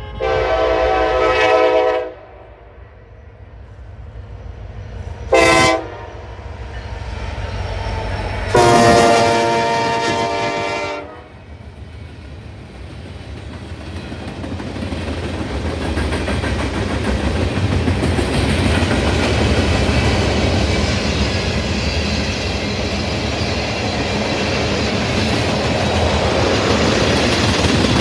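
A locomotive horn sounding three blasts: one ending about two seconds in, a short one about five seconds in, and a longer one about nine seconds in. Then the rumble and wheel clatter of the train passing grows louder and holds.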